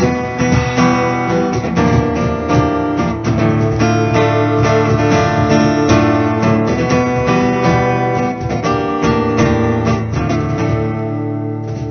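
Acoustic guitar strumming chords through the instrumental outro of a song, thinning to a final chord left to ring near the end.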